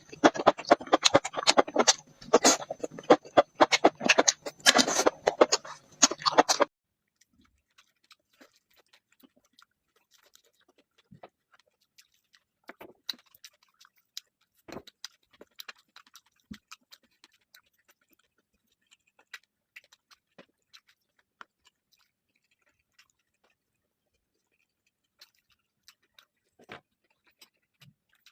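Close-miked eating: dense, loud crunching and smacking chews that stop abruptly about six and a half seconds in, followed by faint, scattered mouth clicks and chews.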